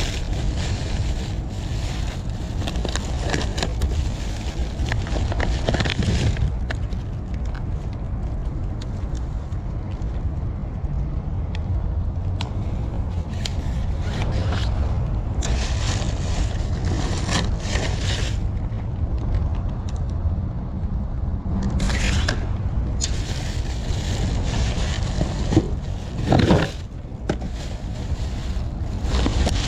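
Rummaging through dumpster finds: repeated bouts of rustling, crackling and scraping as bags and items are handled, over a steady low rumble.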